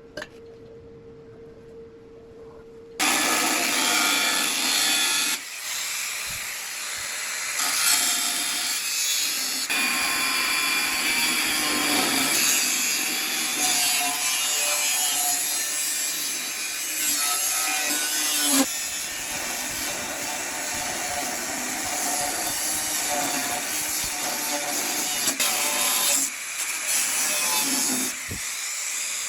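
A power tool working a surface with a loud, continuous abrasive noise that starts about three seconds in, after a faint steady hum. It cuts out briefly a few times near the end.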